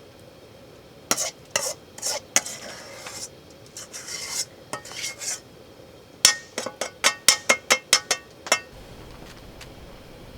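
A metal utensil scraping and knocking against metal cookware, ending in a quick run of about ten ringing clinks.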